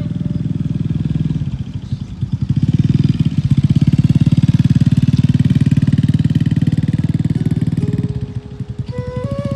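Small motorcycle engine running close by with a rapid, even firing beat. It grows louder about three seconds in and drops briefly near the end.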